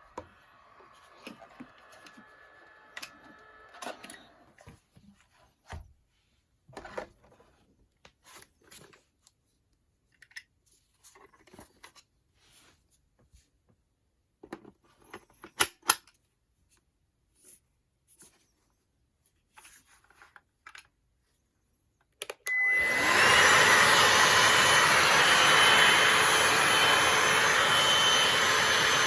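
Scattered small clicks and knocks of handling, then about 22 seconds in a Bosch 18V cordless handheld vacuum cleaner switches on and runs steadily with a high whine.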